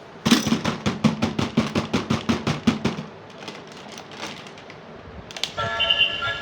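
Rapid, even clicking, about six sharp clicks a second for nearly three seconds, then fainter and sparser. About a second before the end a single click is followed by music starting.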